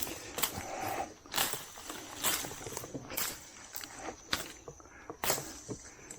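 Footsteps pushing through dense, thorny brush, vines and sticks, about one crunching step a second with rustling in between.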